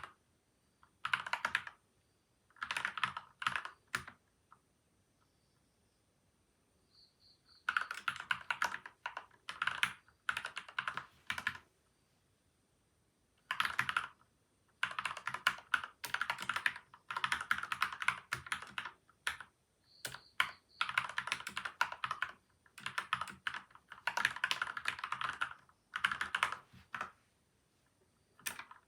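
Typing on a PCL87 mechanical keyboard with lubed linear switches and stabilisers, tape and foam mods: fast runs of keystrokes in bursts broken by short pauses, the longest stretch of continuous typing from about 13 s to 27 s in.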